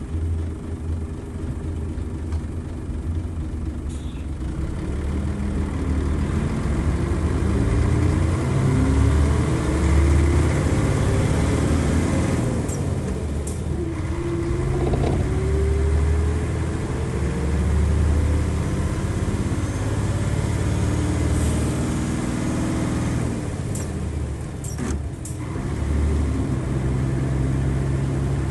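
A bus's Nissan Diesel FE92TA turbocharged diesel engine pulling at high revs, its pitch climbing steadily twice with a break between as it works up through the gears. A few sharp clicks sound around the middle and again near the end.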